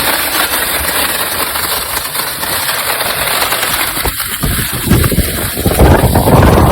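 Storm wind blowing hard across the microphone: a loud, steady rush with a low rumble that swells about five seconds in.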